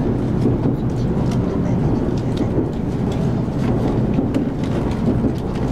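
Hikari Shinkansen bullet train running, heard from inside the passenger car as a steady low rumble, with a few faint light ticks over it.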